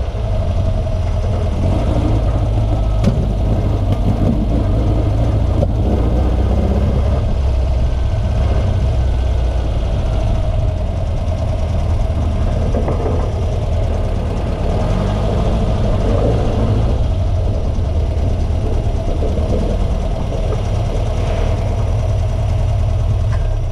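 VW Beetle rally car's newly installed engine running steadily, still untuned.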